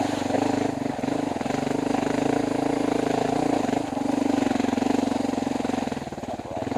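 Dual-sport motorcycle engine running at steady low revs. It eases off briefly near the end, then picks up again.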